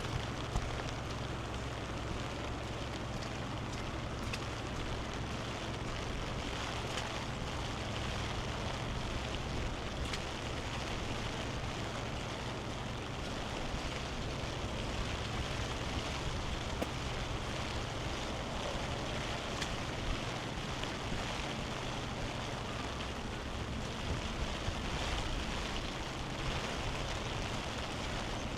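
Heavy rain falling steadily: an even hiss with small scattered ticks of drops, over a steady low rumble.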